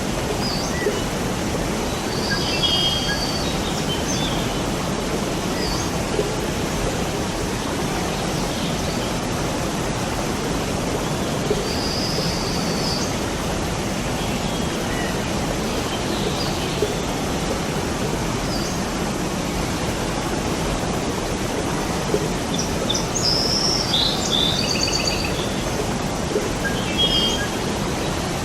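Steady rush of a waterfall, with songbirds chirping now and then over it. There are short bursts of birdsong a couple of seconds in and again about midway, and a busier flurry near the end.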